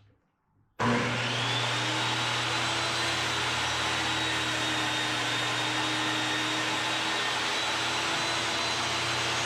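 Electric power saw switched on about a second in, spinning up to a steady whine and running through a cut in a wooden board; near the end it is switched off and its pitch starts to wind down.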